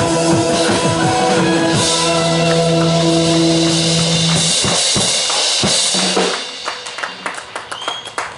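Live band music: held keyboard-like chords over a drum kit, dropping about four and a half seconds in to drum kit strokes alone, which come quicker and softer toward the end.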